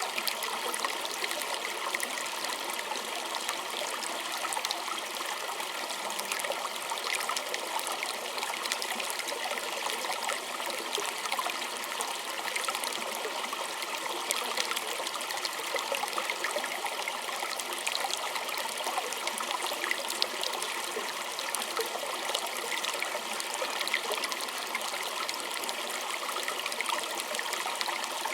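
A small stream trickling and babbling over stones: a steady, even rush of water with fine splashes.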